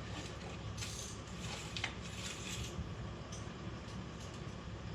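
Faint rustling and light handling noises, with a couple of soft scrapes and a small click, as the engine's oil dipstick is drawn out and wiped to check the oil level.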